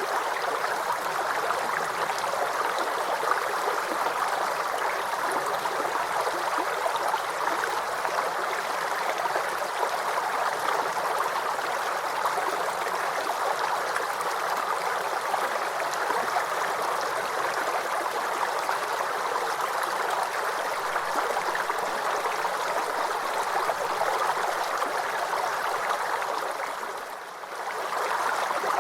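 Small forest brook babbling and trickling over stones: a steady, even water sound that dips briefly near the end before coming back.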